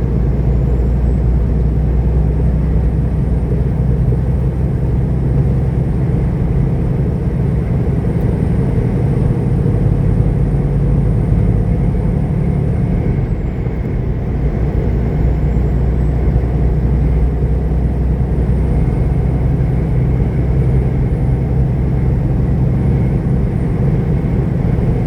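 Semi-truck diesel engine and road noise heard from inside the cab: a steady low drone that dips briefly about halfway through.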